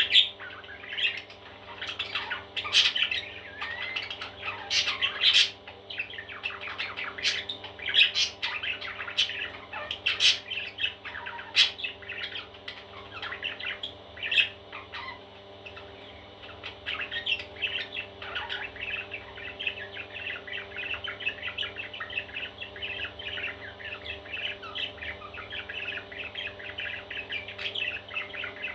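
Baby parrots calling: loud, sharp squawks scattered through the first half, then a steady, dense chatter of chirping calls.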